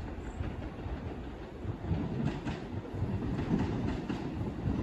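Diesel multiple unit approaching along the track. Its low rumble grows louder about two seconds in, with faint clicks from the wheels on the rails.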